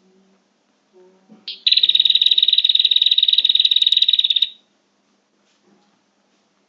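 Prinia (prenjak) lure call: a short upward note, then a loud, rapid, buzzy trill high in pitch lasting about three seconds.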